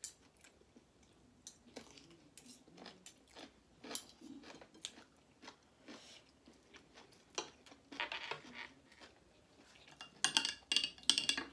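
Close-up chewing and crunching of food, with scattered crisp bites into a pickle. A denser run of sharper clicks comes near the end.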